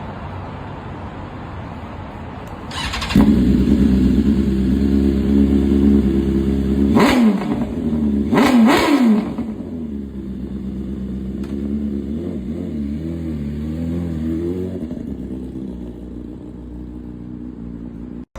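Motorcycle engine running, getting louder about three seconds in, with two quick drops and rises in pitch around the middle, then settling into a quieter, steady run.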